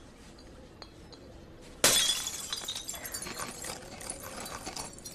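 Glass shattering with a sudden crash a little under two seconds in, followed by a run of crackling, clinking glass fragments.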